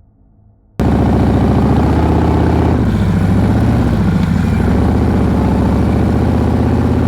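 Harley-Davidson V-twin motorcycle engine running under way, cutting in suddenly about a second in. Its pitch dips and comes back up midway.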